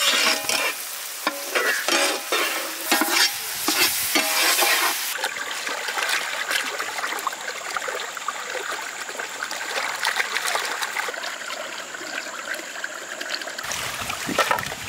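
Chopped onion, tomato and garlic paste frying in butter in a pan: stirring scrapes and clicks for the first few seconds, then a steady sizzle that cuts off about a second before the end.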